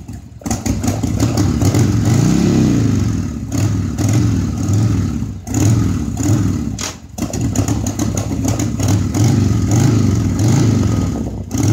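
1986 Harley-Davidson Sportster 1100's air-cooled Evolution V-twin running after a carburettor rebuild, its revs rising and falling again and again, with a few brief drops in the sound about five and seven seconds in.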